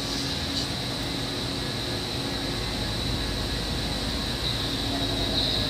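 Old Seibu 2000 series electric commuter train running, heard from inside the car: a steady rumble of wheels on rail with a steady high whine over it.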